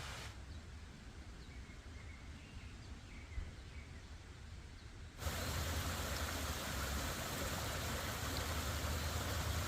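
Outdoor ambience: a few faint bird chirps over a low rumble. About five seconds in it cuts suddenly to a louder, steady rushing hiss.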